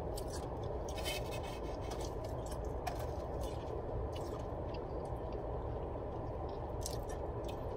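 A person chewing a mouthful of burger: small, faint mouth clicks and crunches over a steady low hum inside a car.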